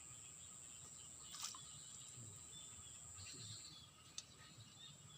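Near silence: faint outdoor ambience with a steady high-pitched tone that stops a little past halfway, and two faint clicks.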